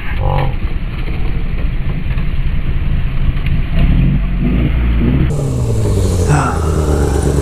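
Sport bike engine running with wind noise, its pitch sweeping up and down and then falling as the bike slows, settling to a steadier low note near the end.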